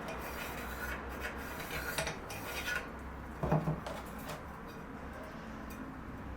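A hand tool working a piece of wood: a run of short scraping strokes for about three seconds, then a single knock about three and a half seconds in.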